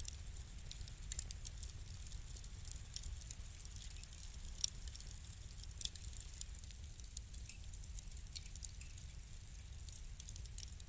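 Wood fire crackling in a fireplace: irregular sharp pops and snaps over a steady low rumble of the flames, with two louder snaps a little before and after the middle.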